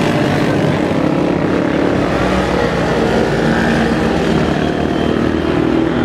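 Several motorcycle engines running together, their overlapping engine notes holding steady at a constant loudness.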